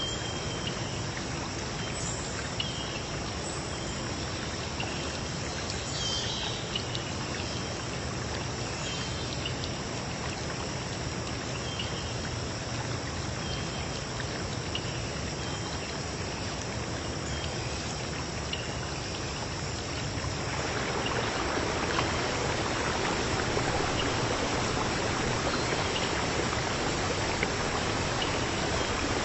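Flowing stream with a steady insect chorus of high chirring over it, and a few short chirps in the first ten seconds. About twenty seconds in, the rush of water grows louder and fuller.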